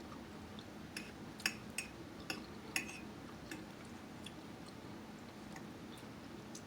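Light clicks and taps of cutlery against a plate while eating: about five sharp clicks in the first three seconds, then fainter scattered ones.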